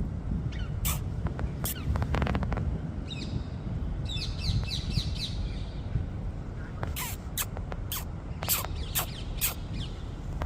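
Birds calling: a scatter of short, sharp chirps, with a quick twittering run about four seconds in. A steady low rumble runs underneath.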